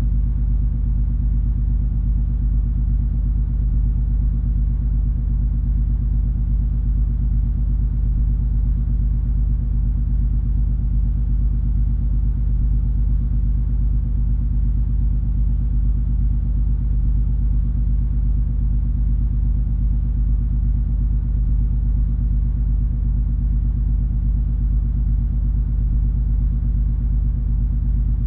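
Steady low rumble of the cruise ferry MS Color Fantasy under way, its engines and propulsion giving an even drone with a steady hum of several low tones.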